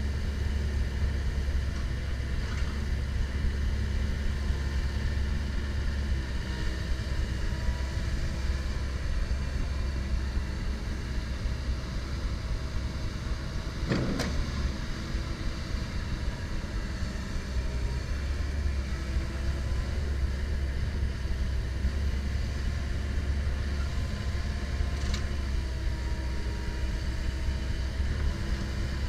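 Komatsu PC170LC-10 hydraulic excavator at work: a steady low diesel engine drone, with fainter hydraulic whines that shift in pitch as the machine moves. There is a sharp knock about fourteen seconds in and a lighter one near twenty-five seconds.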